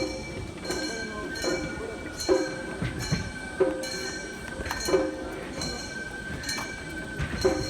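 Gion-bayashi float music: small brass kane gongs clinking in a steady pattern, with a strong ringing stroke about every 1.3 seconds, under a long held bamboo flute melody.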